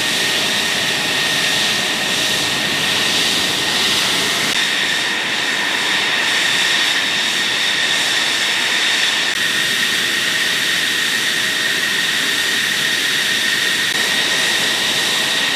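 Jet engine running steadily: an even rushing noise with a steady high whine that does not change.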